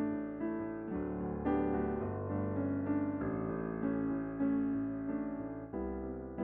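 Background piano music: soft electric piano notes and chords at an unhurried pace.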